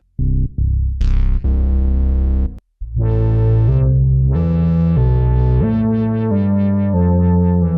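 Electronic music played on a Maschine Plus groovebox. A couple of short synth stabs and a held chord come first, then after a brief break a steady run of synth chords over deep bass.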